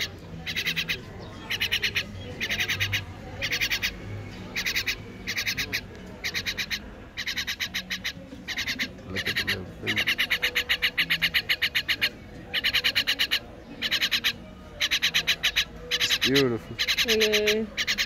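Fledgling bird's harsh begging calls: short bursts of fast, rasping notes repeated about once a second, with one longer unbroken run about ten seconds in. The chick is hungry and begging for food.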